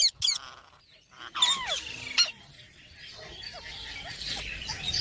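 Pet green parrots squawking: a few short, harsh calls, one sliding down in pitch about a second and a half in, followed by softer scratchy chatter that grows louder toward the end.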